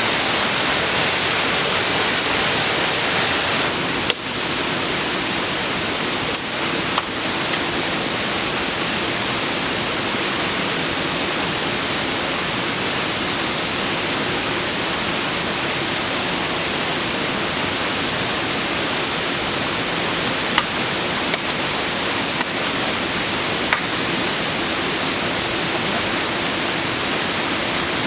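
Waterfall, a steady loud rush of falling water, with a few short clicks or knocks scattered through it.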